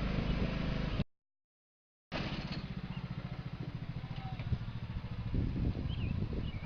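Engine running at a steady low pitch; the sound cuts off about a second in and comes back about two seconds in with the engine still running. A few bird chirps near the end.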